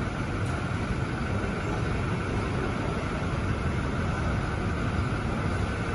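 Toyota Innova Reborn's engine idling steadily.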